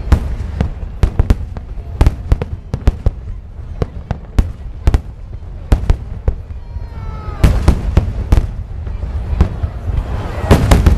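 Aerial fireworks display: a rapid, irregular series of sharp shell-burst bangs, building to a dense cluster of loud bangs near the end.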